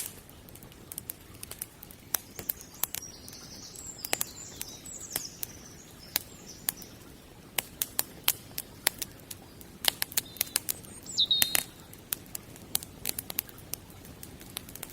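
Wood fire crackling, with irregular sharp snaps and pops over a steady low rumble. About eleven seconds in there is a brief high whistling note.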